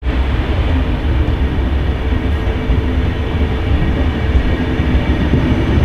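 SBB Re 460 electric locomotive and its passenger coaches approaching on the adjacent track: a steady rumble of wheels on rail with a strong low hum and a faint steady whine.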